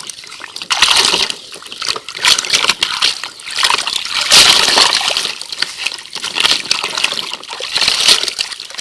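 Water sloshing and splashing in irregular bursts as a small toy vehicle is rinsed by hand in a pool of water.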